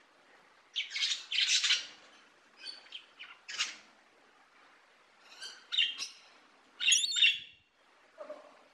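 A bird calling in four bursts of short, high calls, with pauses between them.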